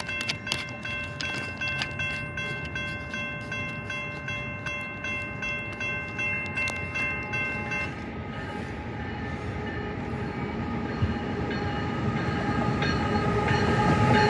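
Railroad crossing bell ringing with repeated strikes, stopping about eight seconds in. Then the rumble of an approaching CSX train grows steadily louder, and its horn sounds near the end.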